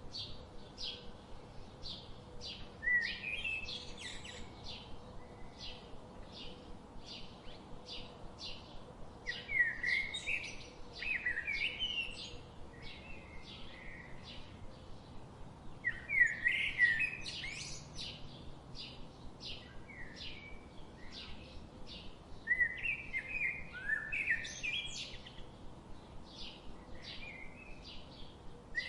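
Songbirds chirping: a steady run of short high chirps, two or three a second. Louder, warbling song phrases break in four times, about 3, 10, 16 and 23 seconds in.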